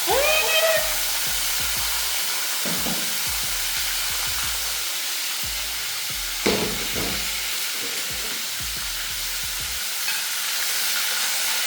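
Pieces of fish tail frying in hot oil in a black pot: a steady sizzle, with a short louder moment right at the start and a sharp knock about six and a half seconds in.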